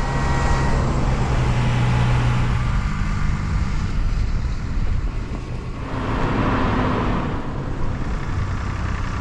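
A motor vehicle's engine running with road noise. A steady low hum is strongest for the first few seconds.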